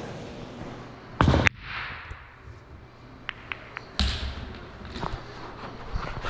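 Two heavy thumps about three seconds apart, each dying away, with a few light taps between them.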